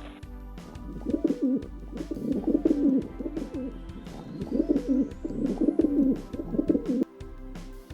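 Pigeons cooing: low, wavering coos repeated in phrases of about a second, with short gaps between them.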